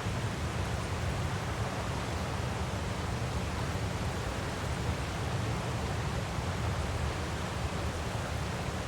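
Waterfall, a steady rushing of falling water with a deep low rumble, unchanging throughout.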